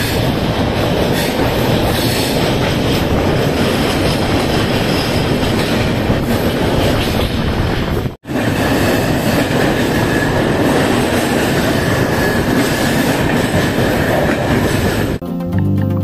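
Islampur–Hatia Express coaches running at speed, heard from a coach doorway: steady loud noise of wheels on the rails, broken by a short gap about halfway through, with a faint high whine after it. Music comes in near the end.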